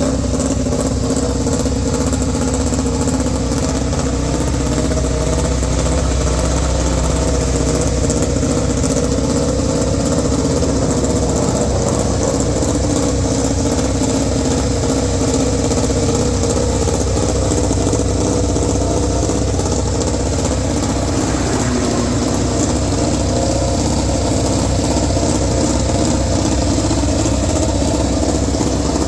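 Ducati Desmosedici MotoGP race bike's V4 engine running steadily at idle, its pitch wavering only slightly.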